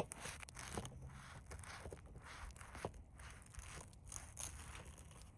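A knife sawing through a filled sandwich roll, a run of faint, irregular scratchy strokes with a sharp click at the start.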